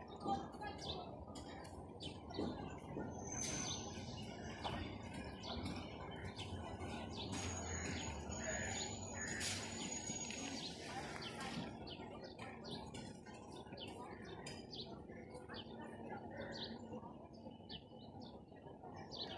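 Many small birds chirping in quick short calls, over a steady low rumble.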